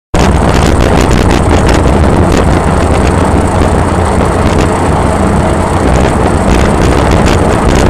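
Loud, steady rumble of a moving vehicle, its engine and road noise running evenly, which cuts in abruptly at the start.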